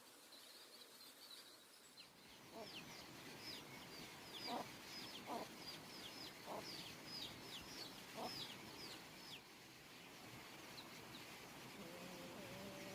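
Chickens calling faintly: a rapid run of high, falling peeps with a few lower clucks mixed in, dying away about three-quarters of the way through.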